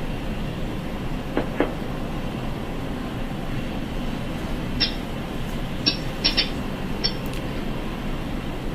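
Steady rumbling airport ramp noise of jet engines running during pushback, with a few short, sharp clicks between about five and seven seconds in.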